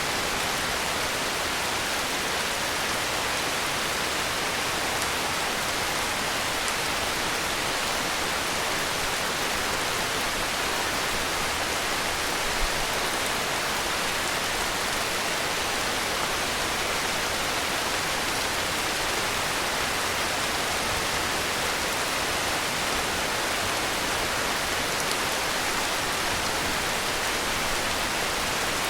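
Heavy rain falling steadily as a dense, even hiss with no separate drops or thunder standing out.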